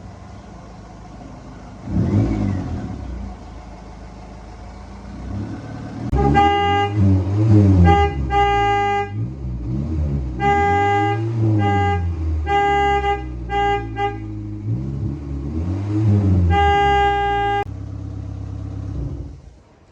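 Kia car engine revving up and down several times while the horn is sounded in a string of honks, some short and some held for a second or more, starting about six seconds in; the car has just been started after its repair.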